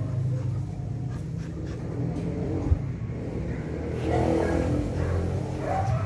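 A steady low motor hum, like a car engine idling close by, runs throughout. About four seconds in, a dog briefly whines.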